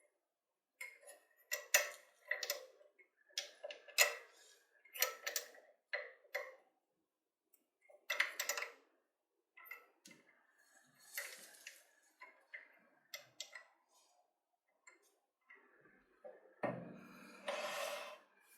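Irregular sharp clicks, taps and short scrapes of hand tools working on a drill motor's armature as it is prepared for rewinding, with one longer scrape near the end.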